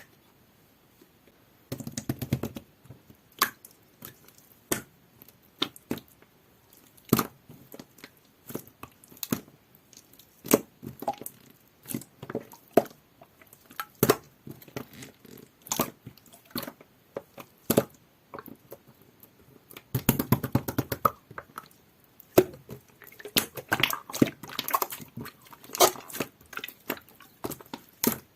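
Hands playing with jelly-like clear slime: sticky clicks and pops about once a second, with longer runs of wet squishing about two seconds in and again about twenty seconds in.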